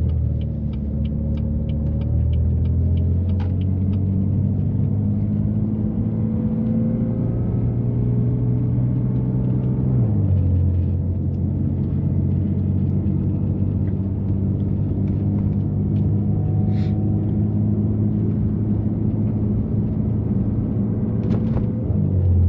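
BMW F80 M3's twin-turbo straight-six, with catless downpipes and an always-open valved exhaust, droning steadily at low revs as the car creeps through snow. Its pitch steps down about ten seconds in.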